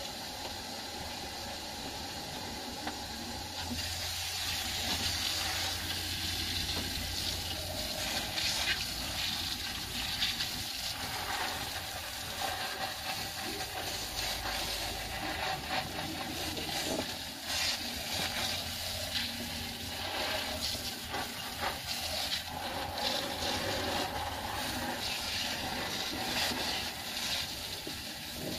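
Water spraying onto a car engine to rinse off soap: a steady hiss that starts suddenly and varies a little as the spray moves.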